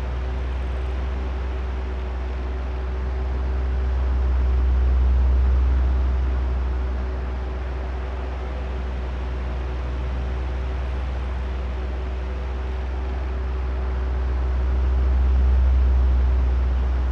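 Oscillating electric fan running: a steady rush of moving air over a low motor hum. It swells louder twice, about ten seconds apart, as the fan head sweeps toward the microphones and away again.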